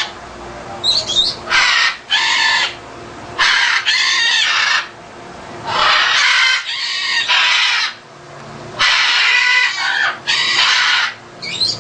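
Pet macaws squawking: a series of about eight loud, harsh calls, each half a second to a second long, mostly in pairs.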